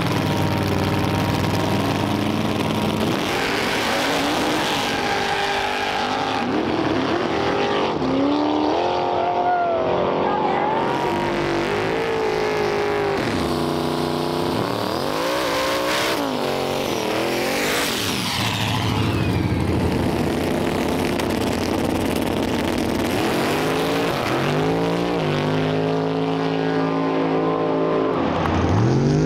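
Race car engines revving and accelerating, their pitch rising and falling again several times.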